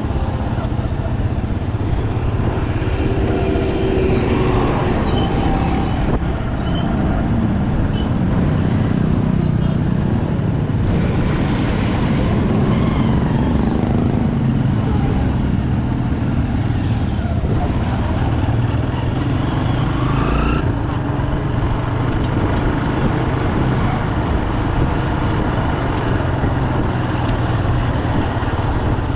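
Bajaj Pulsar 200 motorcycle's single-cylinder engine running steadily while riding through traffic, with other vehicles passing close by.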